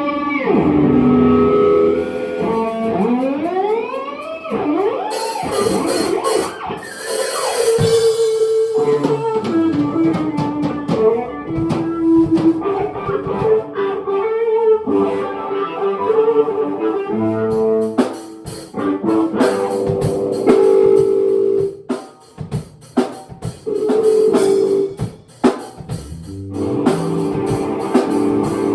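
Improvised band jam: guitar with a drum kit. The guitar swoops up in pitch several times in the first few seconds, and sharp drum hits come through more strongly in the second half.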